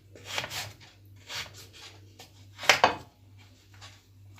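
Kitchen knife cutting vegetables on a wooden cutting board: a few uneven scraping cuts, the loudest near the middle, over a faint steady low hum.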